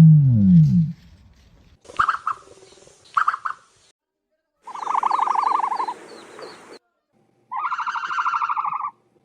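An ostrich's deep booming hoot, falling in pitch, in the first second. It is followed by a couple of short higher calls, then three buzzy, rapidly pulsing calls of a second or two each, with faint chirps over the first of them.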